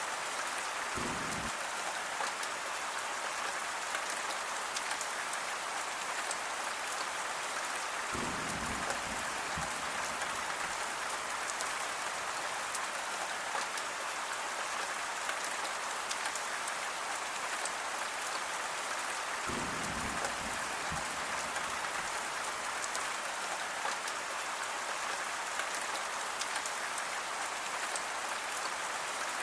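Steady rain falling, a dense even hiss with fine drop ticks. A few brief low rumbles come through underneath, about a second in, around eight seconds and around twenty seconds.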